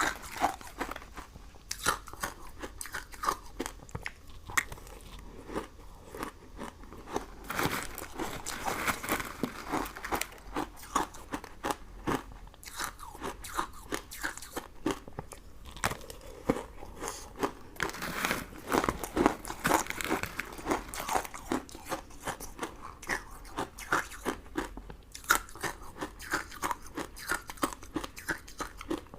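Close-miked chewing and crunching of sugar-crusted sweets: a steady run of sharp, irregular crackles and bites, with a few louder crunches around the middle.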